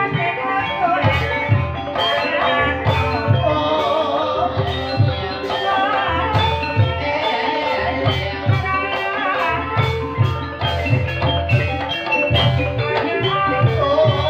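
Live ebeg ensemble music in a dangdut-style arrangement: ringing metallophone melody over a steady, regular drum beat, with no singing.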